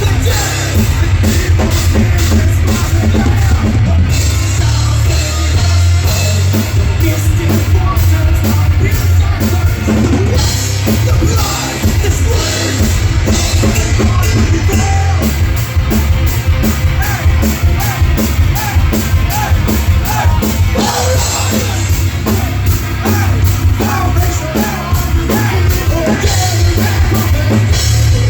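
Live heavy rock band playing loud and fast: drum kit with rapid, steady drum strokes under bass and guitars.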